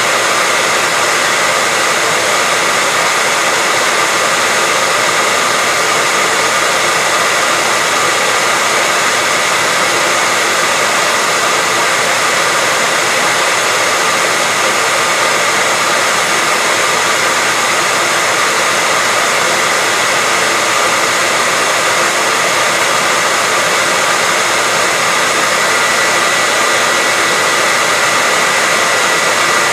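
Hairdryer running steadily: an even rush of blown air with a steady whine from its fan motor, unchanging throughout.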